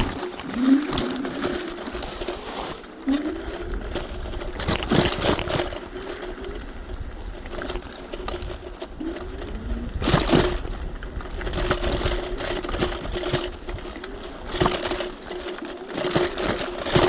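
Electric hyperscooter motor whining at a steady pitch, with short rising whines as it speeds up, while the scooter jolts over a rough dirt trail with loud knocks and rattles.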